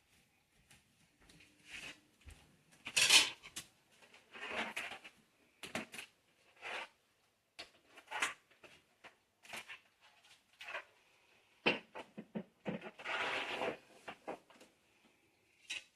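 Irregular knocks, clacks and scrapes of kitchen items being set down and slid on a countertop, with a louder scraping clatter about three seconds in and again near the end.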